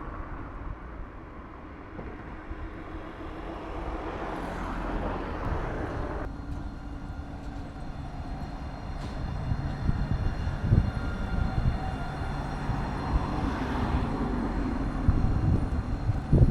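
Light-rail tram running on its track: a low rumble with a steady high electric whine. The sound changes abruptly about six seconds in.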